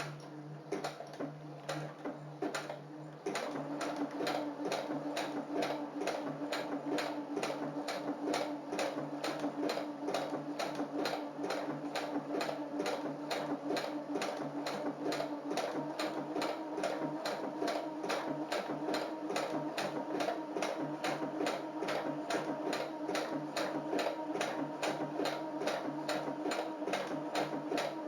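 Brother FS-40 computerised sewing machine stitching an overcast edge stitch along the edge of the fabric: a steady motor hum with regular needle clicks, about three a second, which gets louder about three seconds in.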